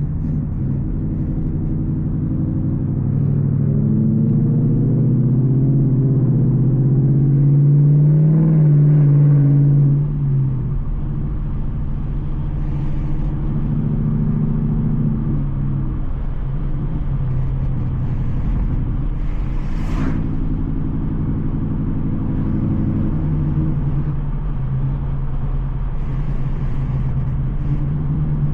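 Straight-piped Ford Mustang GT's 5.0 V8 exhaust under acceleration, its pitch and loudness climbing until about ten seconds in, then dropping away. It then settles into a steady drone, with a couple of step changes in pitch as the 10-speed automatic shifts and a brief click partway through.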